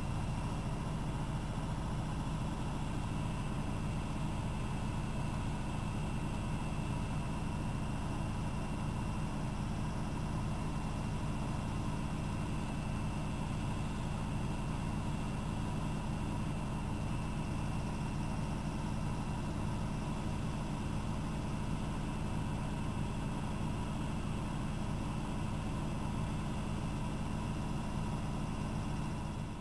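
AEG Electrolux Lavamat L6461 washing machine running steadily, its motor giving a constant hum with a higher whine over it. The sound drops away abruptly at the very end.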